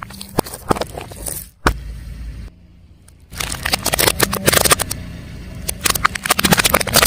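Car tyre rolling over crunchy objects and crushing them: dense crackling and snapping over the car's low running hum. It breaks off after a sharp thump about a second and a half in, and the crunching resumes, louder, about three seconds in.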